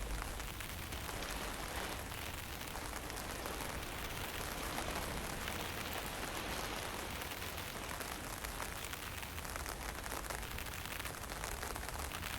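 Steady mountain wind with a fine drizzle falling, and a low rumble of wind buffeting the microphone.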